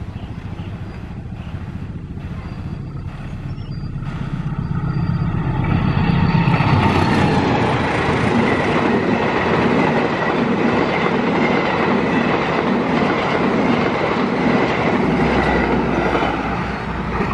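Diesel-hauled passenger train approaching and passing close by at speed. The locomotive's low engine rumble grows louder over the first six seconds or so, then the carriages rush past with a steady, rhythmic clatter of wheels on the rails.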